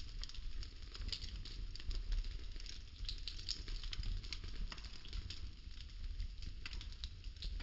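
Burning popsicle-stick wood crackling, with many small irregular pops and snaps over a low steady rumble of flame.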